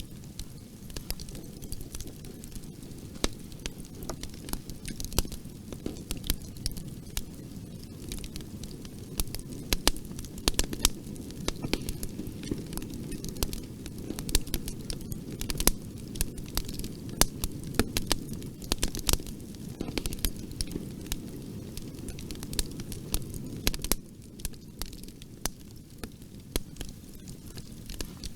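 Bonfire burning: wood crackles and pops in sharp irregular snaps over the low, steady rush of the flames. The popping is busiest in the middle stretch and eases slightly near the end.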